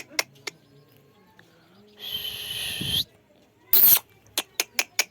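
Parrot calling: a quick run of short, sharp calls at about six a second, then a harsh screech lasting about a second, a loud single squawk, and another fast run of short calls near the end.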